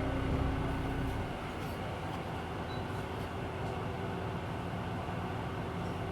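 Interior sound of a Hino Blue Ribbon City Hybrid diesel-hybrid city bus: a heavy low rumble that eases off about a second in, settling into a steadier, quieter mechanical hum.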